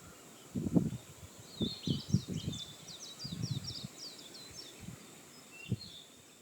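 Birds chirping, with a quick run of short chirps about a second and a half in, over irregular low rustling thumps.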